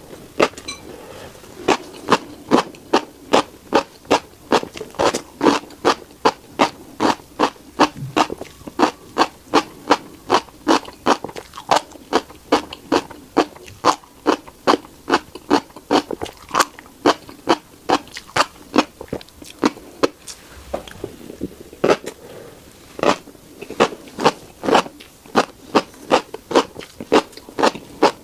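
Close-up chewing of crunchy tiny black seeds: sharp crunches in a steady rhythm of about two to three a second, pausing briefly about twenty seconds in.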